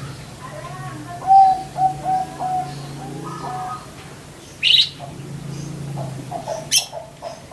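Budgerigars chirping: a run of short repeated chirps, a sharper higher call about halfway through, then more chirps near the end, over a steady low hum.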